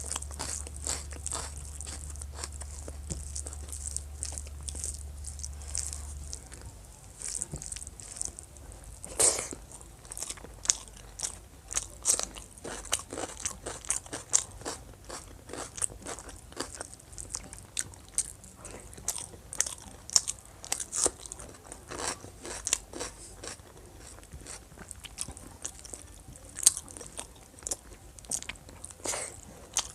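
Close-miked eating: chewing, biting and crunching of food, a dense run of short irregular clicks and crunches. A low steady hum runs underneath and stops about six seconds in.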